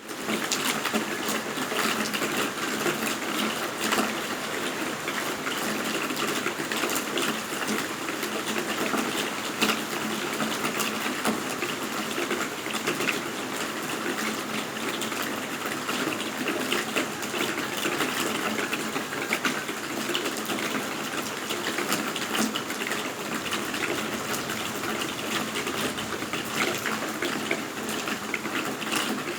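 Steady rain falling, a dense even hiss with many small drop impacts ticking through it.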